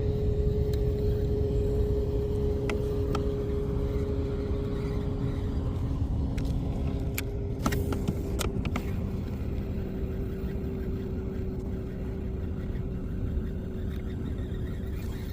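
A motor running steadily: a constant droning tone over a low rumble, with a few light clicks.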